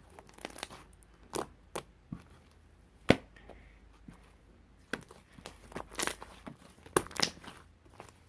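Crinkling and sharp tapping of something being handled close by, in irregular bursts, the loudest a little after three seconds and a cluster between five and seven and a half seconds.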